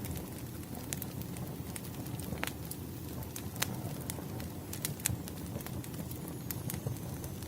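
Wood fire burning, a steady low rumble of flame with irregular sharp crackles and pops from the burning logs, a few louder ones standing out. A faint thin high whistle starts near the end.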